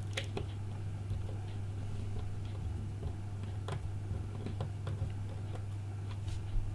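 Scattered faint clicks and taps of small tools and parts being handled while transferring an iPhone 5's home button piece to a replacement screen assembly, over a steady low hum.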